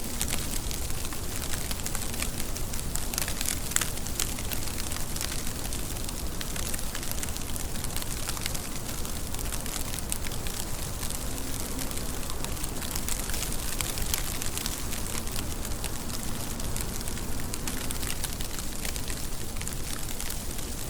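Steady rain falling, a dense even hiss full of fine, crackly drop ticks.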